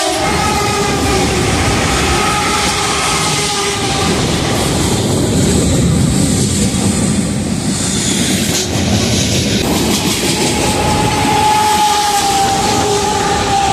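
BNSF freight train's diesel-electric locomotives passing close at speed: engines running and steel wheels clattering over the rails, a loud steady rush of noise. A steady horn tone comes in near the end.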